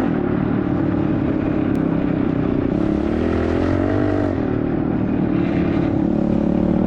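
Pit bike's small single-cylinder four-stroke engine running steadily under way, its pitch rising briefly about three seconds in and easing back about a second later.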